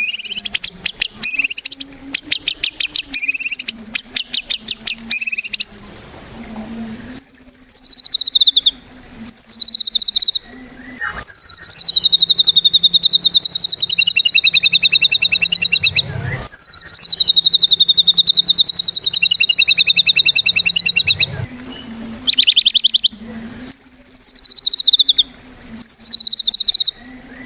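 White-rumped shama (murai batu) singing in rapid, buzzy trills: a run of short repeated bursts for the first few seconds, then longer trills that sweep down and back up, some held for several seconds. A faint low hum lies underneath.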